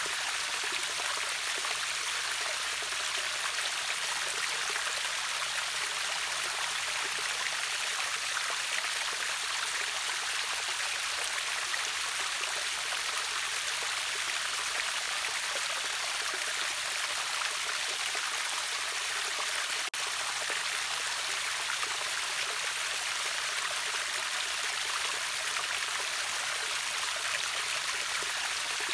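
River water rushing steadily over a waterfall, an even rush strongest in the upper range, broken by a momentary gap about twenty seconds in.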